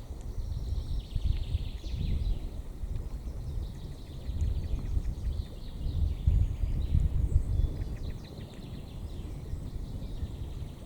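Wind buffeting the microphone in gusts, with small birds chirping and trilling in the background.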